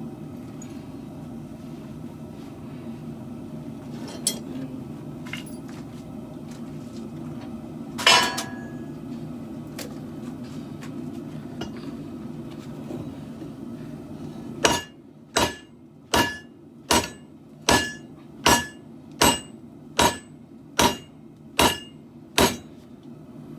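Hammer blows on a steel katana blade: one loud ringing strike about eight seconds in, then a run of about eleven evenly paced ringing blows, roughly one every three-quarters of a second, over a steady low rumble.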